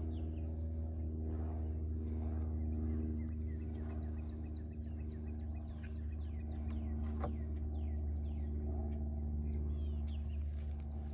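A steady low hum, with many short falling bird chirps over it through the middle part.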